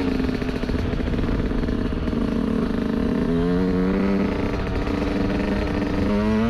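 Yamaha YZ125 single-cylinder two-stroke dirt bike engine running while riding, revs stepping up to a higher steady pitch about halfway through and climbing again near the end.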